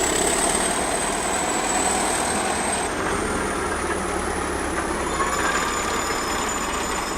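Heavy machinery running steadily under load, with a thin high whine throughout that shifts slightly in pitch about three seconds in.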